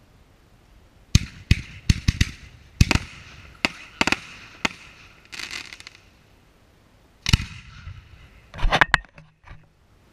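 Aerial fireworks going off: a quick series of sharp bangs starting about a second in, then a short gap and two more loud bursts later on.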